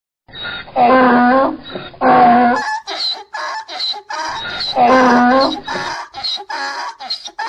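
Donkey braying: two loud, drawn-out calls, about a second in and again about five seconds in, with quicker, fainter pulsed sounds repeating between and after them.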